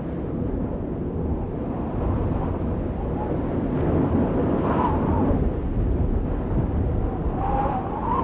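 Audience crowd noise in a hall after a performance: a steady wash of cheering and chatter, with a few voices calling out about five seconds in and again near the end.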